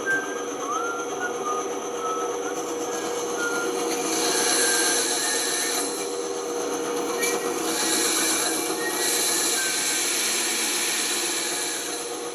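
Band saw running with a steady hum while its blade cuts wood, louder and hissier in two stretches about four and seven seconds in, with short high squeaks throughout.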